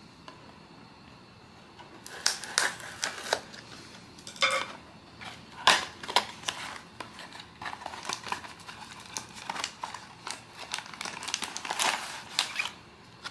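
Crinkling and rustling of blind-box packaging being handled, with sharp crackles and clicks, starting about two seconds in and going on irregularly until just before the end.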